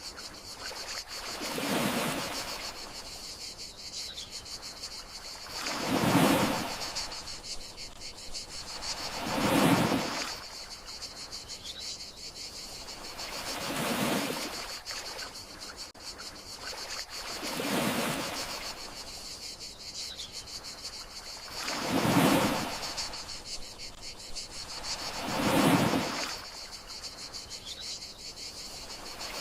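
Gentle sea waves washing ashore about every four seconds, some swells louder than others, over a steady high cricket chirring.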